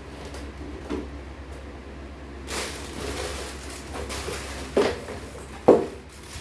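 Handling noises: rustling from about halfway in, with two sharp knocks about a second apart near the end, over a steady low hum.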